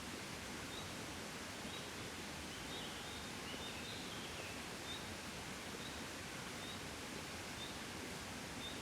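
Gentle breeze blowing steadily as a soft, even rush of wind. Faint high chirps repeat about once a second, with a short flurry of them about three seconds in.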